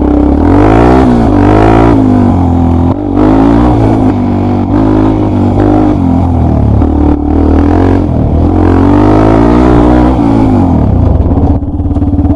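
Trail motorcycle engine on the move, revving up and dropping back again and again as the throttle is opened and closed, then settling into a steady low run near the end.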